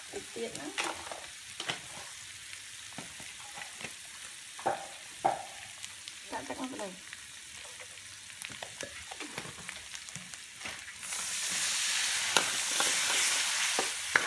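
A spatula stirring and scraping egg and seasoning in a hot steel wok, with a light sizzle and scattered clicks of the spatula on the pan. About eleven seconds in, liquid poured into the wok sets off a much louder sizzle for about three seconds.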